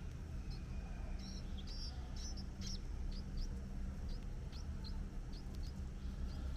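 Birds chirping: a string of short, high chirps, one or two a second, over a steady low background rumble.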